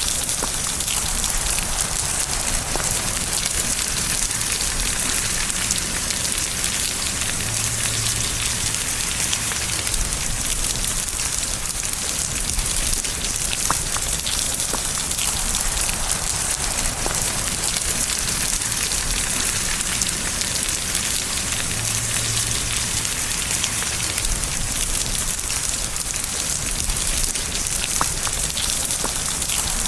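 Steady rain falling on a surface: a dense, even hiss of drops with scattered individual drop ticks.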